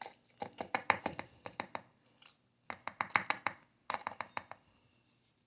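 Small scoop scraping and tapping in a container while a powdered supplement is measured out: quick clicks and scrapes in three short runs, the last ending about a second before the end.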